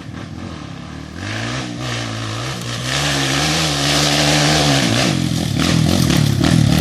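Dirt bike engine revving: the pitch climbs about a second in, holds with small rises and falls, dips near five seconds, then the engine grows louder again toward the end.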